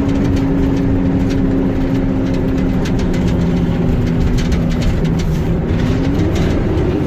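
A motor vehicle's engine and road noise, a steady loud drone. Its engine tone sags slowly and then climbs again near the end, with faint scattered ticks over it.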